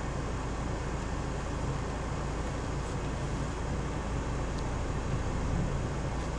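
Car engine and road noise heard from inside the cabin: a steady low hum under even noise.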